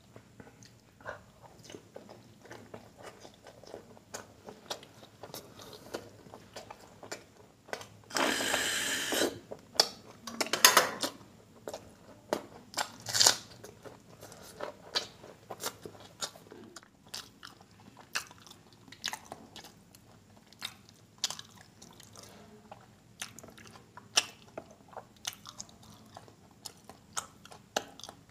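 A person eating by hand, chewing and smacking on paratha and curry in a rapid run of small clicks. A louder, longer noisy sound comes about eight seconds in, and another loud one about two seconds later.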